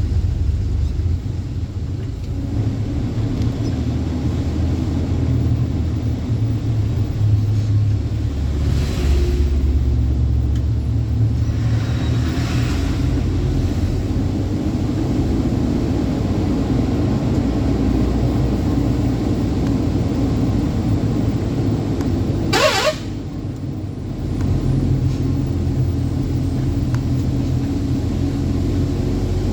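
Truck engine running under way with a steady low rumble. About three-quarters of the way through there is a brief sharp hiss-like burst, and the engine sound then drops for a second or so before picking up again.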